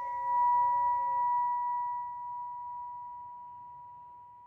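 A 963 Hz tuning fork ringing after being struck, a single pure tone with a faint octave overtone, slowly fading away.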